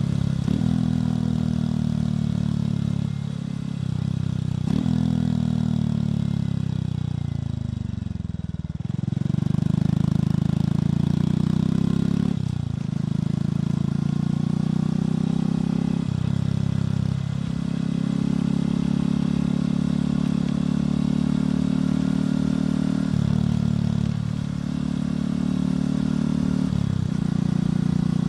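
Motorcycle engine and exhaust under way, the note falling steadily for a few seconds as the bike slows, then rising again. It breaks off and changes pitch abruptly several times as gears are shifted.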